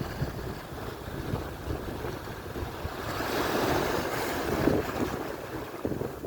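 Atlantic surf: waves breaking and washing in, one swelling up louder about three seconds in, with wind buffeting the microphone.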